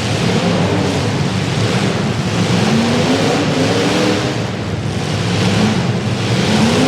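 Several demolition derby car engines revving at once, their pitches rising and falling over each other.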